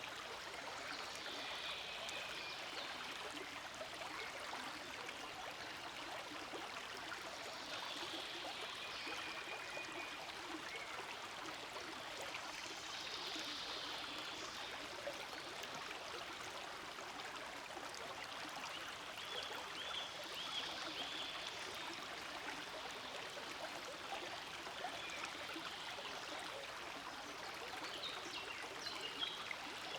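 Forest stream flowing steadily: a continuous babble of running water, with slightly brighter splashy swells every few seconds.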